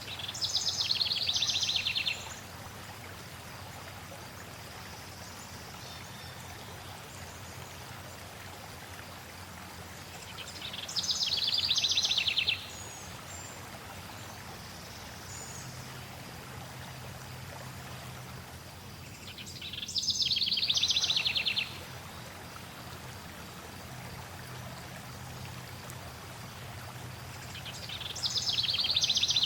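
Steady rush of a flowing stream, with a songbird singing a fast trill of about two seconds four times, roughly every nine seconds; each trill swells and then stops abruptly.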